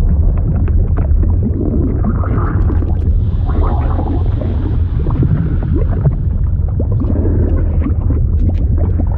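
Fluid sound effect: a steady low rumbling churn of liquid, with many small bubbling pops and gurgles over it.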